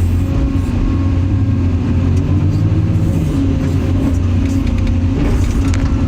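Excavator's diesel engine running steadily under load, its pitch dipping and rising as the hydraulics work, with a few knocks about five seconds in.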